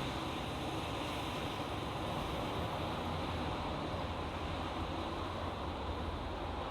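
Steady road traffic noise from a national highway: an even rush of tyres and engines with a low hum underneath, with no single vehicle standing out.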